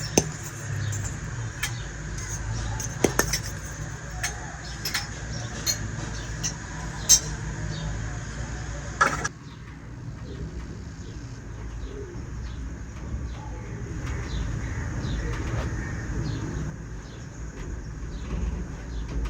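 Miniature toy kitchen pieces clicking and tapping against each other in sharp, scattered knocks over a steady low background hum. At about nine seconds the sound drops abruptly, and only softer, fainter ticks follow.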